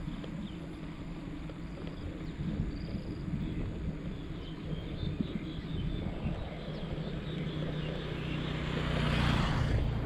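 A motor vehicle passing close by. Its engine and tyre noise builds over about three seconds, peaks near the end and drops away, over steady wind and road rumble from the moving ride.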